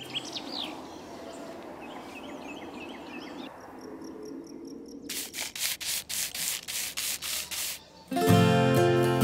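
A run of even rubbing strokes, about three a second, like a surface being sanded or scrubbed, over a faint hiss with light chirps before it; acoustic guitar music starts about eight seconds in.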